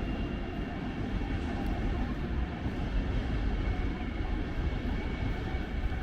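Strong wind buffeting the microphone: a steady, uneven low rush with no let-up.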